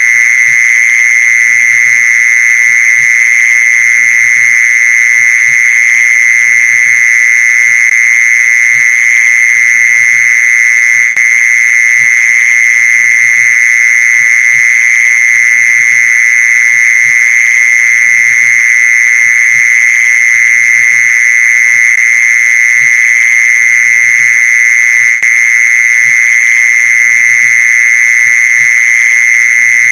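Mole cricket song: one loud, unbroken, steady high trill without pause, played as a lure call.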